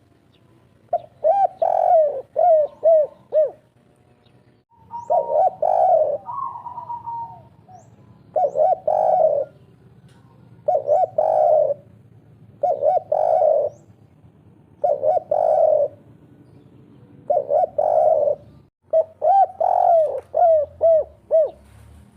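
Spotted dove (derkuku) singing its 'kuk 3' coo: about eight phrases of short, rolling coo notes, one every two seconds or so, from a bird in full breeding condition.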